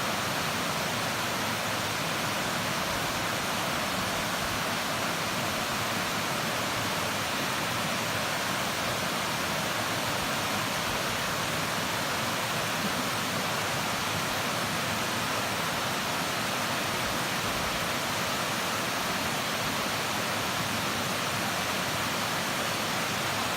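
Waterfall over a mill-pond dam, a steady, even rush of falling water.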